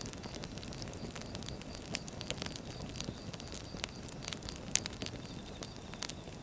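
Firewood burning: a steady low rush with irregular crackles and snaps throughout, one sharper pop about three-quarters of the way through.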